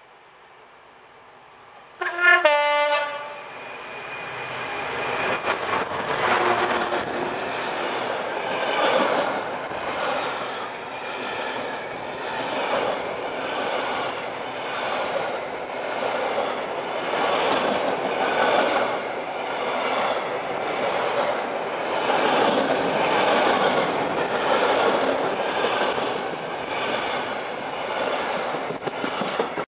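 A diesel freight locomotive sounds a short two-tone horn blast about two seconds in. It then runs past hauling a long rake of coal hopper wagons, whose wheels clatter in a steady repeating rhythm over the rail joints.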